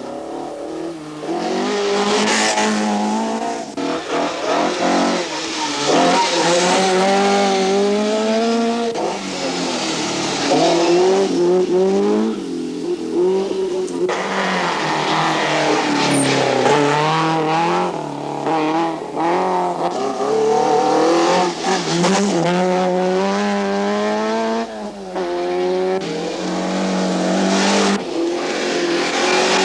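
1970s rally car engines running hard on a special stage. The pitch climbs and drops over and over as they accelerate and shift gears, with tyre noise and brief dips between runs.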